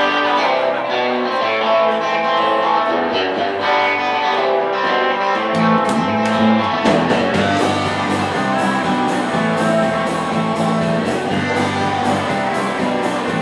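Live rock band playing the instrumental intro of a blues-rock song: electric guitar alone at first, with the rest of the band coming in about halfway through, adding a heavy low end and a steady beat.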